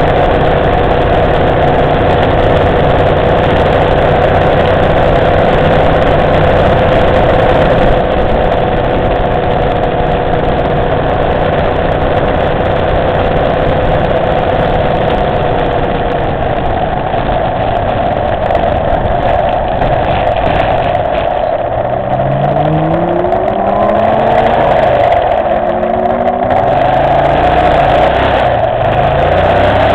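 Motorcycle engine running on the road under steady wind and road noise. About two-thirds of the way through, the engine revs rise and drop back several times in quick succession, as when accelerating up through the gears.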